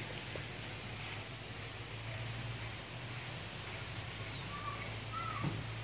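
Birds chirping with short whistles and a quick falling call, mostly in the second half, over a steady low hum and outdoor background noise.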